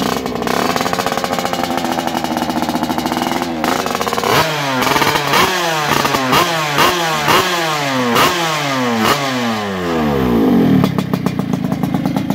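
Motorcycle with an aftermarket underbody exhaust idling, then blipped sharply about eight times in quick succession, the revs falling away after each blip, before settling back to idle.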